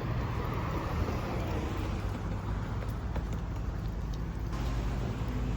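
Steady ambient rumble and hiss, heaviest in the low end, with a few faint clicks in the middle.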